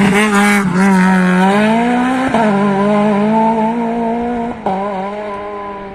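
Rally car engine at high revs accelerating hard, its pitch climbing and then dropping sharply twice as it shifts up. There are a few sharp crackles in the first second, and the sound fades as the car pulls away.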